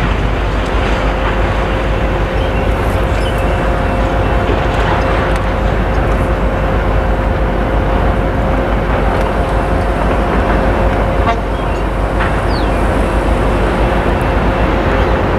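Train rolling past: a steady, loud rumble of wheels on rails, with a faint steady high tone running through it.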